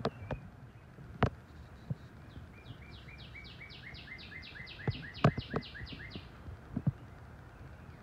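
A songbird singing a fast trill of about fifteen evenly spaced notes, about four a second, starting about two and a half seconds in and lasting some three and a half seconds. Several sharp knocks come through as well, the loudest during the trill.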